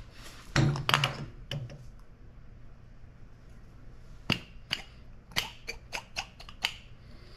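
Sharp taps and knocks of metal being handled: a few knocks near the start, then a quick run of about ten clicks in the second half, as the flashlight tube and the stuck battery inside it are worked.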